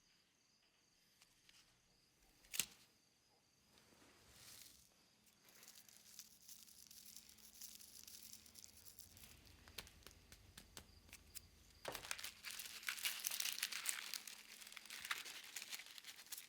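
Close-up crinkling and tearing of cigarette paper and tobacco as a cigarette is worked by hand. The crackling grows busier over the last few seconds, after a single sharp click about two and a half seconds in.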